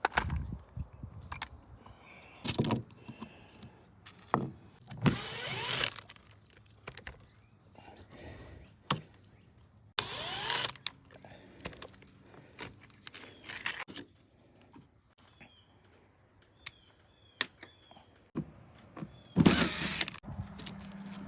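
A cordless power drill running in short bursts, about four times, spinning up with a rising whine, with sharp knocks and clatter of metal parts between them.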